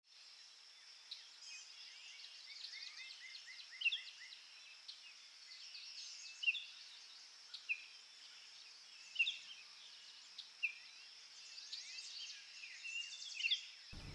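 Several songbirds singing and chirping, faint, over a steady high hiss, with a quick run of about six repeated notes a few seconds in and a few sharper chirps standing out. An acoustic guitar strikes in right at the end.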